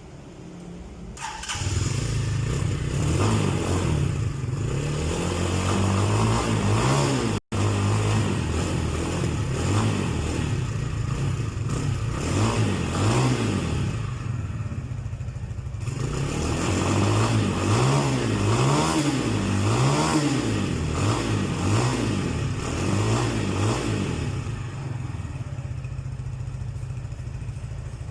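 Brand-new Rusi Classic 250 motorcycle engine starting about a second in, then revved up and down over and over. It settles into a steady idle near the end.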